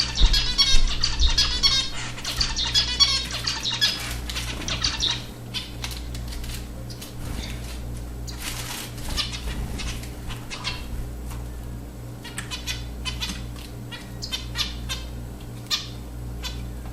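Zebra finches chattering in quick, busy calls for about the first five seconds, then mostly short wing flutters and splashes as the birds bathe in a shallow water dish. A steady low hum runs underneath.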